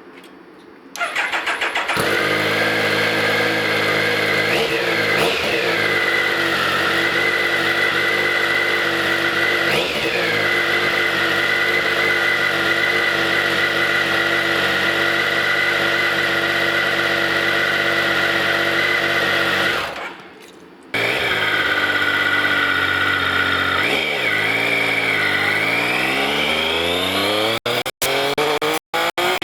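Triumph Daytona 955i's three-cylinder engine on its standard exhaust, starting about a second in, then running steadily with a few short blips of the throttle. Near the end the engine speed climbs steadily, and the sound cuts out in brief gaps.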